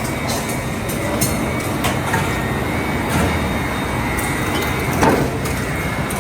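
Double-shaft aluminum shredder running under load: a steady heavy mechanical din with scattered metallic clanks and scrapes as aluminum scrap is torn apart.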